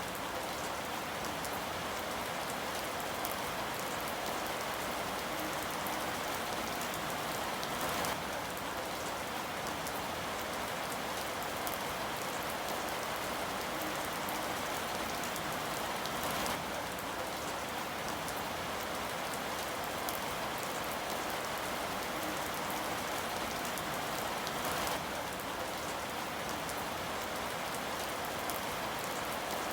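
Steady, even rainfall pattering on a surface. There is a brief slightly louder tick about every eight seconds.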